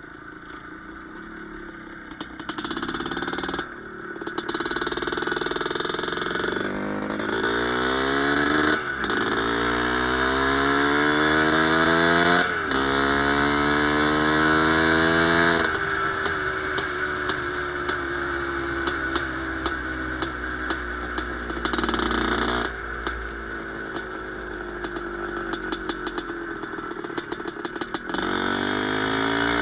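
Single-cylinder two-stroke IZh Planeta Sport engine in a CZ 125/516 motorcycle pulling hard through three quick upshifts, its pitch climbing and dropping back at each change. It then runs fairly steadily for a long stretch, easing off a little, and climbs again near the end.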